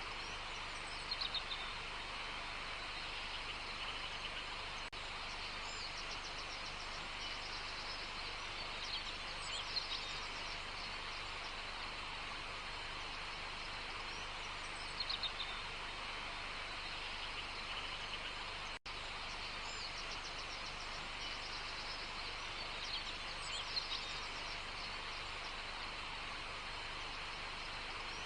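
Outdoor nature ambience: a steady hiss with short, high bird chirps breaking in every few seconds.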